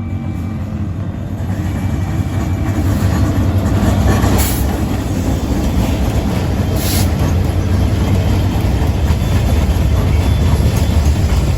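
Coal train passing: a heavy low rumble of wagons on the rails that grows louder over the first few seconds, with a couple of brief sharp clatters.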